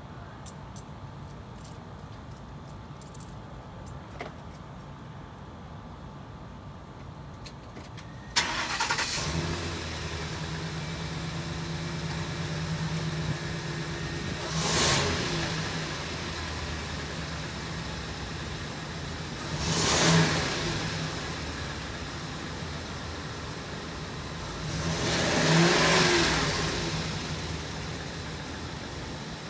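Ford E350 van engine cranking and catching about eight seconds in, then idling steadily. It is revved three times, each rev rising and falling back to idle.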